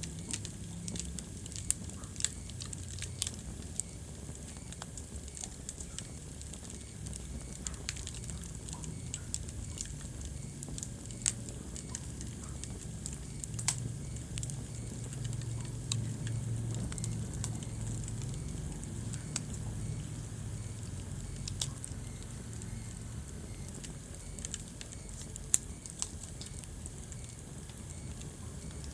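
Wood fire crackling in a fireplace: sharp pops at irregular intervals over a low, steady rumble of the flames.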